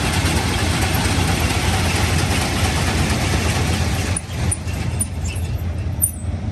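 Engine idling steadily, overlaid by a loud even hiss that cuts off suddenly about four seconds in, followed by a few light clicks.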